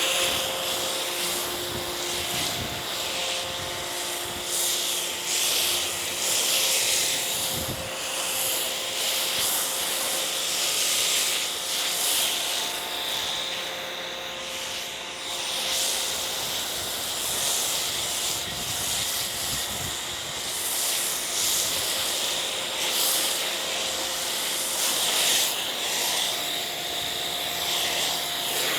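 Foam cannon on a pressure washer spraying soap foam over a dry car's panels: a steady hissing spray that swells and eases as the stream sweeps across the car, with a faint steady hum beneath it.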